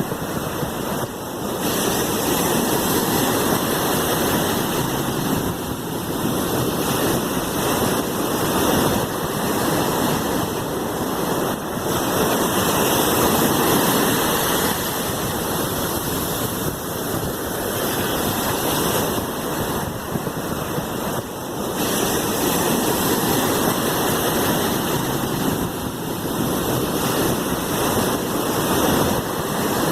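Steady rushing of sea waves, rising and easing gently every few seconds.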